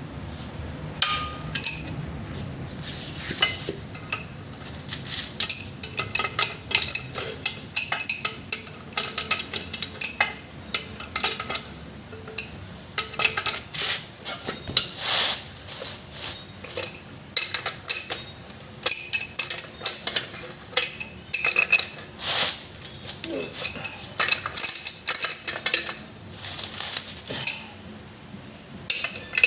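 Irregular metallic clinks, taps and knocks of hand tools against steel parts of the rear axle during an axle bearing replacement, some strikes ringing briefly.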